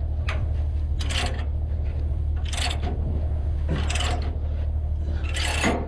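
A steady low diesel engine idle, with five short scraping noises spaced a second or so apart on top of it.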